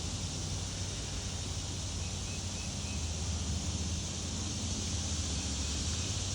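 Steady outdoor background noise: a low rumble under a hiss, with three faint short high chirps about two and a half seconds in. No distinct pecking strikes stand out.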